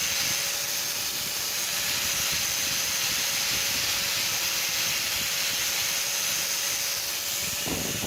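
A workshop tool running with a steady, loud hiss over a faint steady hum, cutting off suddenly near the end.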